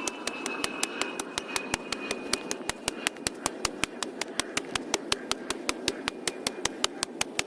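A small machine running steadily, with a rapid, even ticking of about five or six ticks a second over its hum.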